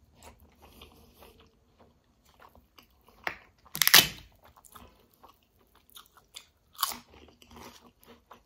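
Close-up eating sounds: chewing a mouthful of kadhi and rice, with wet mouth sounds and fingers mixing rice and curry on a steel plate. A few louder sharp sounds stand out about three and four seconds in and again near seven seconds.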